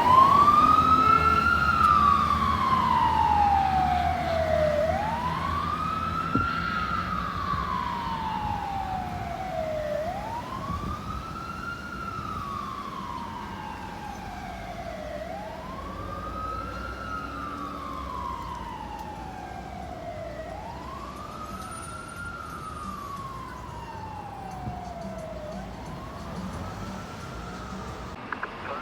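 Fire truck siren sounding a slow wail: each cycle a quick rise in pitch followed by a long fall, about one cycle every five seconds. It grows fainter over the first dozen seconds as the truck moves away, then holds at a lower level.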